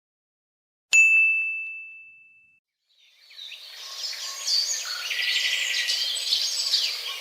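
A single bright ding about a second in, one clear high tone that rings out and fades over about a second and a half. Then, after a short silence, birds chirping fade in and keep going.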